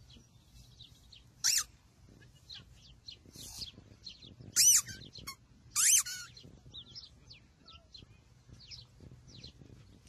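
Wild birds chirping and singing, a scatter of small high chirps throughout. Three much louder, sharp high chirps stand out: one about a second and a half in and two more in the middle.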